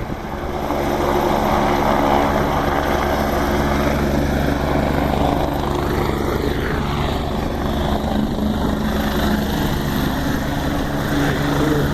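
Helicopter running steadily, its rotor and engine giving a loud, even drone of low tones that neither rises nor falls.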